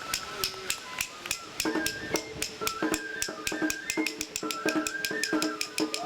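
Japanese festival music for a lion dance: bamboo flutes playing held notes over fast, even percussion strikes, with lower tones joining about two seconds in.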